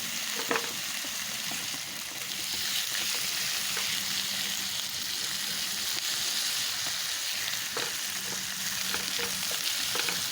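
Bacon frying in a pan, a steady sizzling hiss with a few light clicks.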